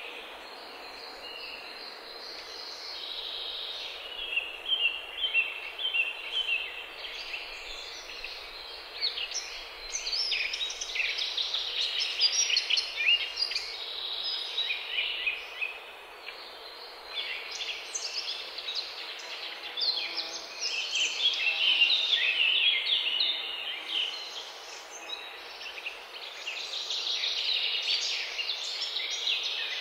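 Small songbirds singing and chirping, a fast run of short, varied high notes that comes and goes in busier spells, over a steady faint outdoor hiss.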